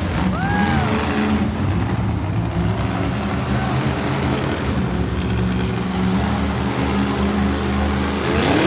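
Monster truck engine running loud and revving, its note shifting up and down. A short rising-and-falling tone sounds about half a second in.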